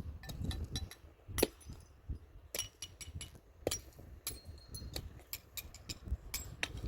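Irregular clinks and knocks of small hard objects, a dozen or so, some ringing briefly like metal or glass; the loudest comes about a second and a half in.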